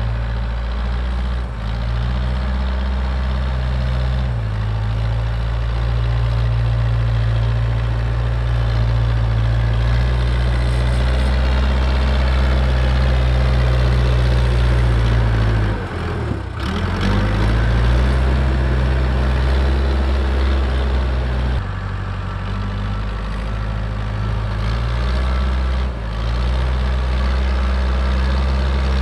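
Diesel engine of heavy farm equipment running steadily under working load, its speed shifting several times, with a brief sharp drop in revs about halfway through that climbs straight back.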